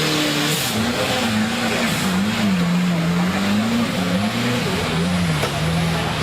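Off-road 4x4 engine running hard, its revs rising and falling over and over.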